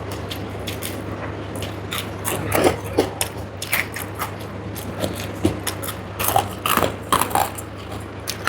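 Close-up eating sounds: irregular chewing clicks and wet mouth and lip smacks from someone eating a rice meal, over a steady low hum.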